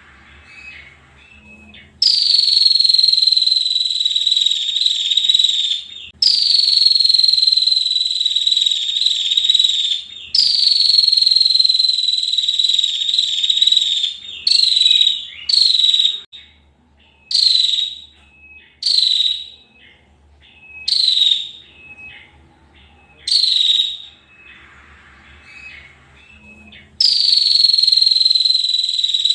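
Female prinia (prenjak) calling in long high trills of about four seconds each, each falling slightly in pitch, three in a row, then a run of short trills of about a second with gaps between, and another long trill near the end.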